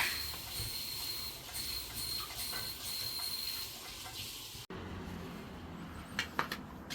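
A hiss with a thin, high whistle, typical of pressurized gas being blown through an air conditioner's in-wall refrigerant piping to flush it. It opens with a sharp click, stops abruptly about two-thirds in, and a few light clicks follow near the end.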